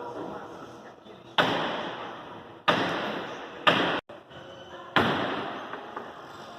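Four loud slams, each ringing out and fading over about a second, the third following the second quickly.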